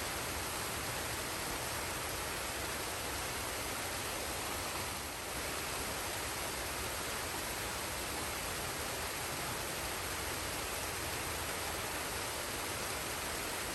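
Forest waterfall and stream: a steady rush of falling water, with a slight dip in level about five seconds in.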